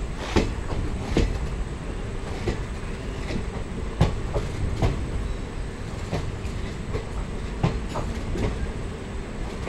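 Passenger train coaches rolling past close by, their wheels knocking sharply over rail joints roughly once a second over a steady low rumble.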